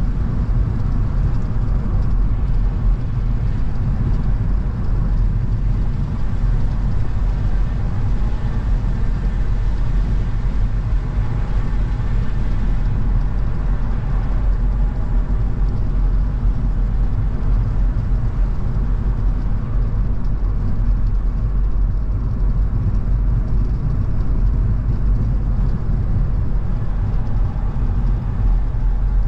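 A car driving at a steady speed: engine and tyre-on-road noise as an even low rumble that does not change.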